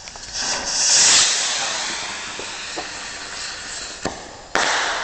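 Firework rocket launching with a loud hiss that peaks as it takes off and fades as it climbs, then a sharp bang about four and a half seconds in as it bursts.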